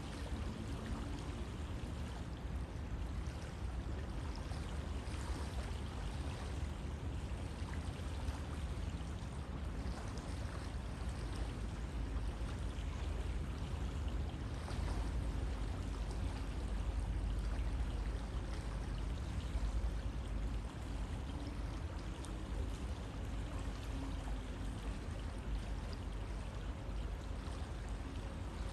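River water flowing steadily, a continuous even rush with a strong low rumble.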